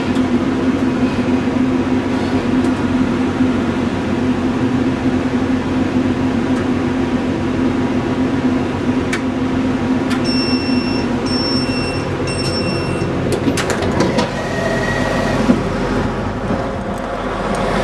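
Cabin sound inside a Class 175 diesel multiple unit slowing to a stop: a steady diesel engine drone with running noise, whose low steady hum fades about two thirds of the way through. Three short electronic beeps sound about ten seconds in, followed by a few sharp clicks.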